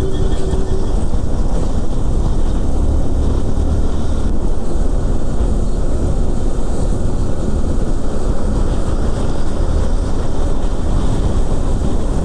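Wind rushing and buffeting over the microphone of a moving 160 cc motorcycle, with its engine running steadily at cruising speed underneath.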